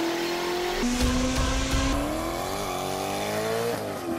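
Car engine running at a steady speed, then revving up with its pitch climbing for about two seconds before it cuts off near the end, with music mixed in.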